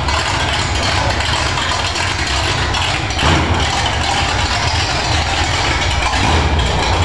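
Ford pickup truck's engine running steadily at idle, a deep, even engine sound.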